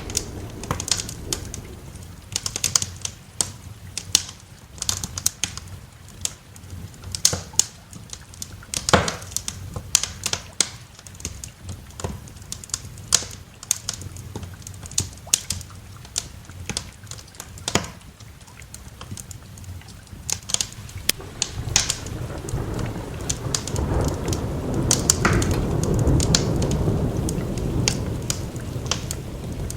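Wood fire crackling with frequent sharp pops and snaps over a light hiss of rain. About two-thirds of the way through, a low roll of thunder builds, swells and slowly fades.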